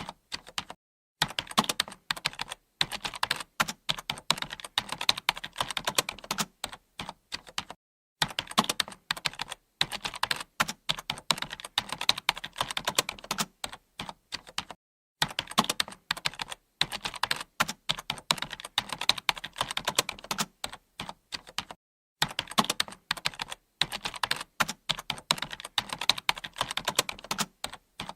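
Computer keyboard being typed on: a fast run of key clicks, stopping briefly for a second or less several times.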